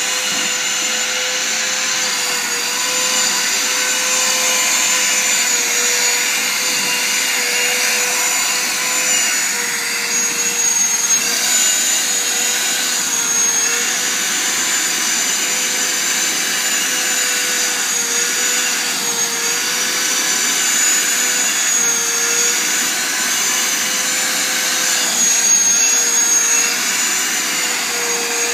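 Vacuum cleaner running steadily with a high whine, its pitch dipping briefly every few seconds as the nozzle is worked over a cat's fur.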